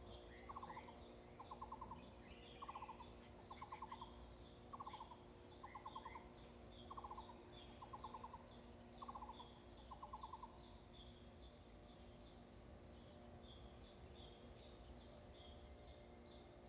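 Faint birdsong. One bird repeats a low call, a short note followed by a rapid rattling trill, about every two seconds until about ten seconds in, over the high chirping of smaller birds.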